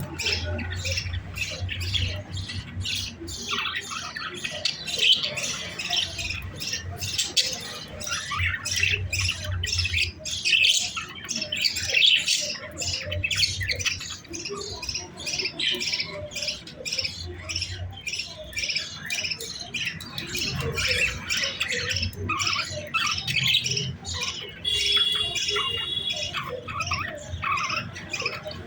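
Several pet-bird chicks squawking rapidly and without a break, the harsh begging calls young birds make at feeding time.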